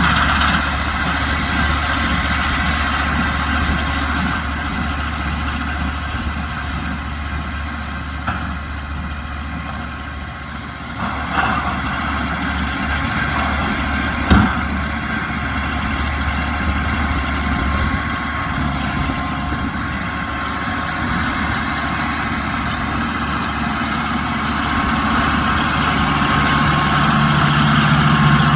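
Kubota M125X tractor's diesel engine running steadily while working a baler, with a few sharp knocks about a third and halfway through. The engine grows a little louder near the end.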